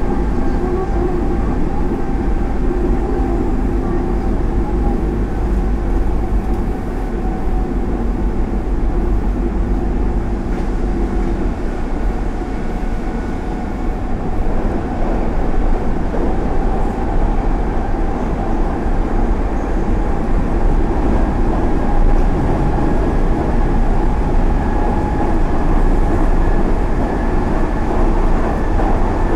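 Hanshin Line express train heard from inside the passenger car while running at speed: a steady low rumble of wheels on rail, with a faint whine that rises slightly near the end.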